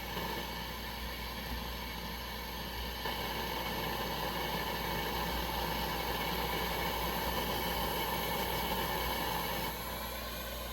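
Burner of a Coleman 523 pressurized gasoline stove running with a steady hissing rush that grows louder about three seconds in and drops back down near the end.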